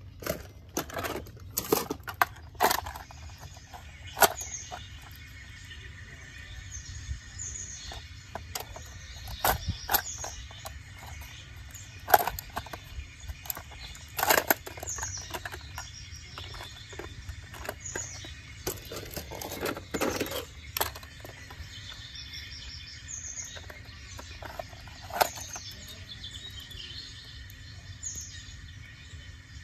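Birds chirping in short high calls, with scattered sharp clicks and knocks.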